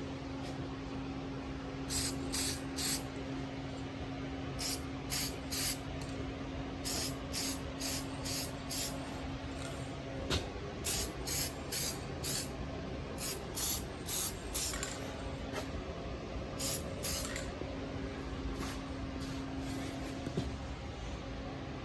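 Aerosol spray-paint can (rattle can) sprayed in many short bursts, each a fraction of a second, in quick strings of several, over a steady background hum.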